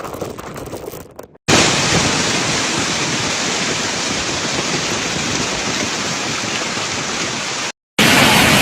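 Heavy storm rain pouring down in a dense, steady hiss, starting abruptly about a second and a half in and cut off near the end. Before it, a gusty wind noise fades out.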